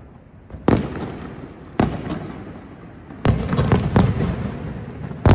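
Aerial firework shells bursting: about six sharp bangs, each trailing off in an echoing rumble, coming closer together in the second half.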